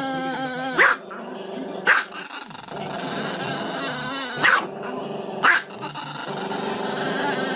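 A small black-and-tan dog howling and growling in long, wavering, pitched stretches, broken by four sharp yaps.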